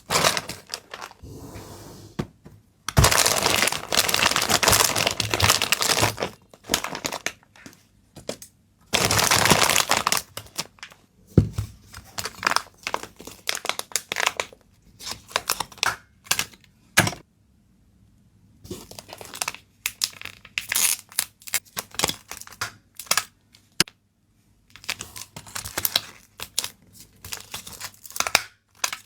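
Packaging being torn and handled by hand: two long tearing pulls, then a run of crinkles, taps and clicks as wrapping materials are handled.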